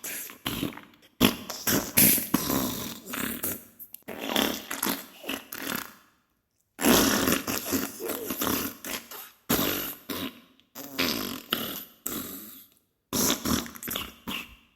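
Diarrhea fart sound effect: a series of wet, crackly bursts, each one to three seconds long, with short breaks between them and a silence of about a second a little before the middle.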